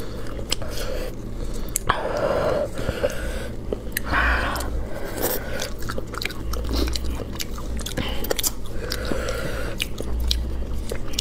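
Close-up chewing and biting on spicy braised rabbit head, with wet mouth sounds and many sharp crunchy clicks as the meat and bone are torn and chewed.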